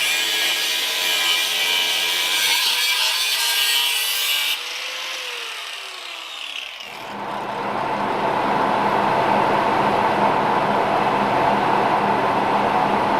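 A power tool working metal: a harsh hissing cut for about four and a half seconds, which stops suddenly as the motor winds down with a falling pitch; about seven seconds in a motor starts again and runs with a steady hum.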